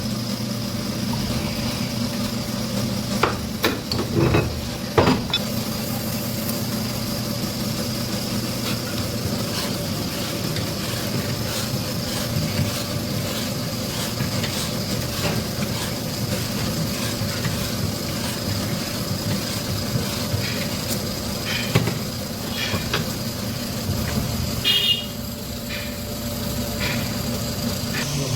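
Twin-head boring machine running steadily with a constant motor hum, and a few sharp metal clinks and knocks over it.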